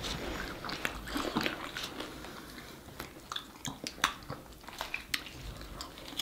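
Close-up sounds of someone biting and chewing a grilled chicken flatbread: irregular small crunches and mouth clicks.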